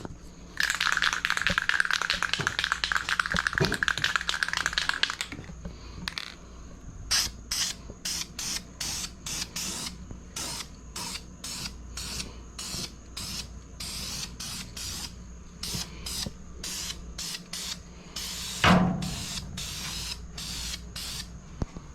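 Aerosol spray paint can spraying: one steady hiss for about five seconds, then a string of short spurts, marking a cut guideline on a replacement trunk pan. A single thump near the end.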